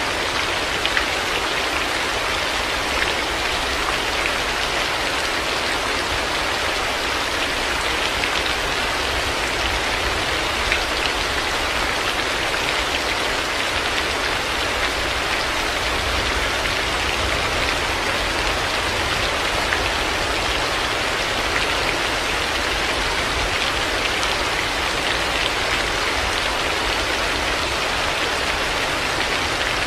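Heavy rain falling steadily, an even, dense hiss of drops with a steady low rumble underneath.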